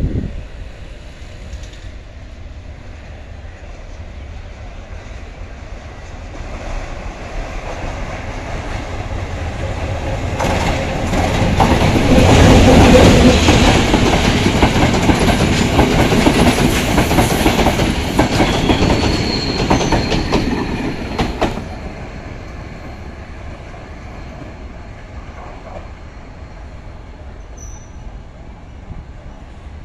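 Sri Lanka Railways diesel-hauled express passenger train passing close by. The sound builds over several seconds, then the coaches go past with a fast clickety-clack of wheels over rail joints. About 21 seconds in it drops sharply as the last coach clears, leaving a fainter running sound as the train draws away.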